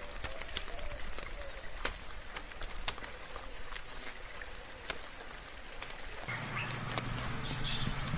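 Steady soft rain with scattered individual drips, and a few short high bird chirps in the first second or so. About six seconds in, a steady low hum joins the rain.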